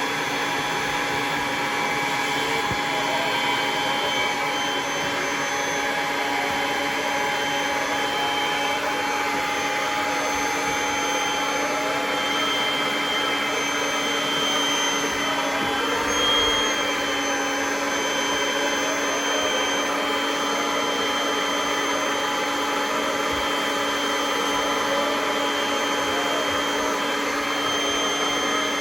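Kirby vacuum cleaner running steadily, its motor giving a constant whine as it cleans the stairs.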